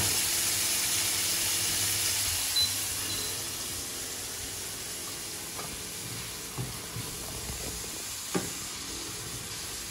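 Sliced carrots, chili and garlic sizzling in hot oil in a frying pan, stirred with a spatula; the sizzle slowly dies down. There are a few short knocks, about three, spread through it.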